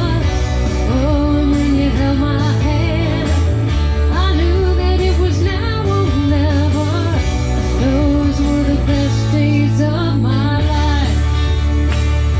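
A live band playing country-rock music, with a melody line bending up and down over steady bass and drums.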